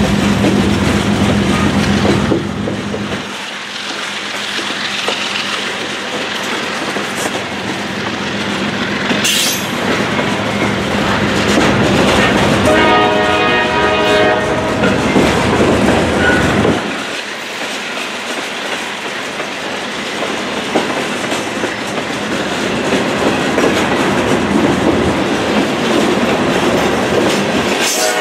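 Hopper cars of a CSX rock train rolling steadily past on the rails, with a loud, continuous rumble and rattle of wheels and car bodies. About halfway through, a steady pitched tone rides over it for a few seconds.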